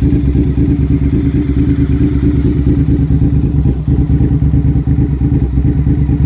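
Honda VTR1000 SP1 V-twin engine running steadily through aftermarket Ladybird MotoGP-style exhausts, with a fast, lumpy exhaust pulse. There is a brief dip just before the four-second mark.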